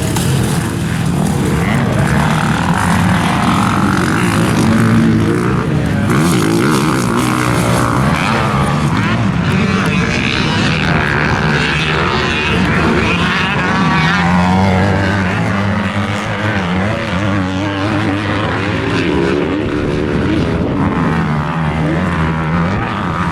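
Motocross dirt bike engines revving hard, their pitch climbing and dropping again and again as the throttle is worked.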